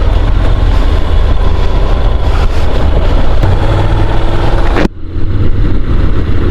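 Honda NC750 DCT motorcycle on the move: a steady low engine drone under heavy wind rush on a helmet microphone. About five seconds in, the sound drops out for a moment and comes back with less high hiss.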